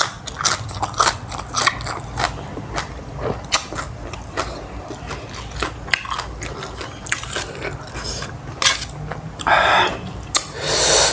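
A person chewing and crunching food close to the microphone, with many short mouth clicks and smacks. Two longer rushing sounds come near the end.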